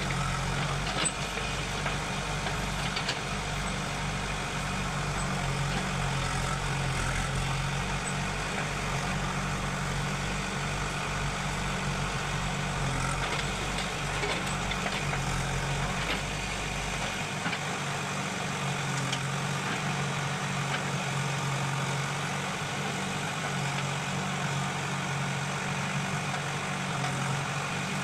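Diesel engines of a JCB backhoe loader and a tractor running while soil is loaded, the engine note swelling and easing in spells as the machine works. A deep low rumble drops away about two-thirds of the way through.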